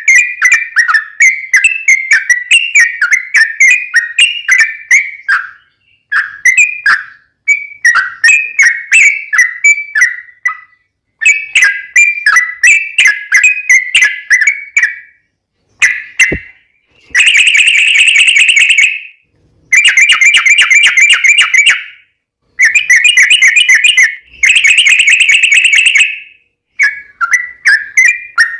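Yellow-vented bulbul (trucukan) song: strings of quick, bubbly chirping phrases broken by short pauses, with louder, unbroken rapid trills about two-thirds of the way through.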